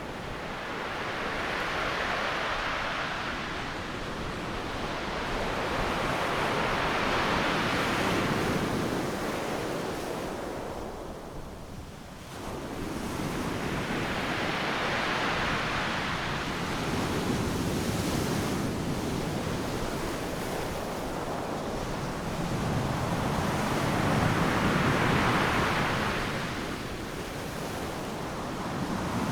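Ocean surf breaking on a beach: a continuous rush of waves that swells and falls in slow surges every several seconds, with a brief lull about twelve seconds in, and some wind noise on the microphone.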